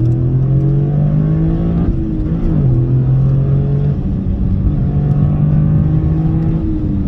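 Toyota GR Corolla's turbocharged 1.6-litre three-cylinder engine heard from inside the cabin while driving: the engine note climbs for about two seconds, dips briefly, then holds steady and drops away near the end.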